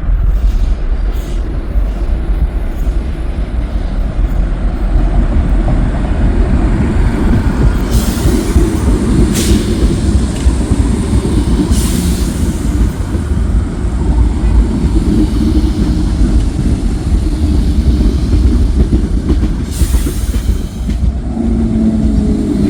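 Train running through the station: a loud, continuous rumble of wheels on rails, with a few brief high hisses or squeals partway through and again near the end.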